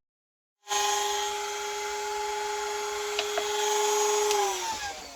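Small high-speed electric power tool starts a little under a second in and runs with a steady whine, then is switched off and winds down near the end.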